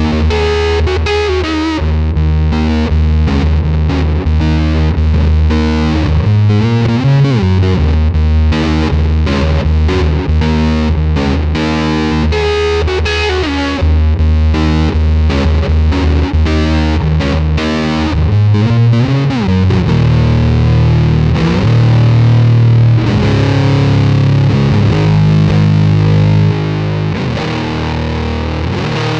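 Electric guitar played through a Big Muff-style fuzz pedal, thick and heavily distorted, with sustained chords and notes and a few sliding pitch bends.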